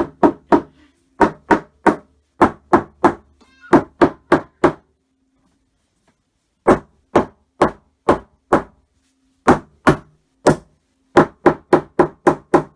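Banging on a wall, sharp knocks in quick runs of four or five with a pause of about two seconds midway, the runs getting faster near the end.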